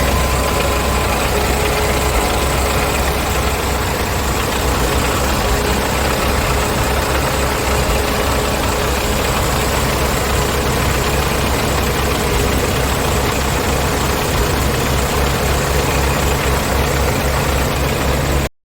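Scania R tractor unit's diesel engine idling steadily. It cuts off suddenly at the very end.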